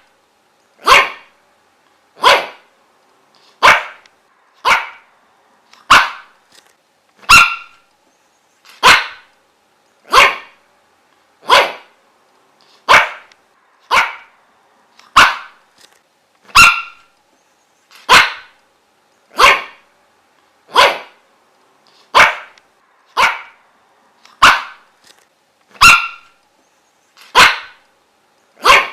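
A dog barking over and over: single short, sharp barks at a steady pace of about one every second and a half, with no let-up.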